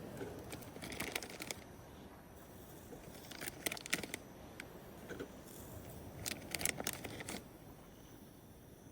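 Small clicks and rustles of hands handling wrappers and cooking gear, coming in three short clusters: about a second in, around four seconds, and near seven seconds.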